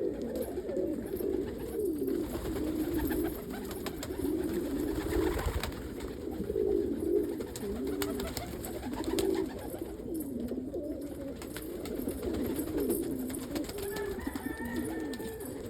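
Several domestic fancy pigeons in a loft cooing continuously, their low, wavering coos overlapping one another.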